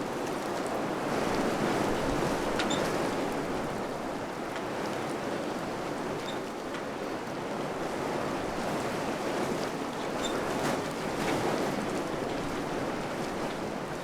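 Wind blowing steadily, swelling into gentle gusts and easing off again, with a few faint short ticks here and there.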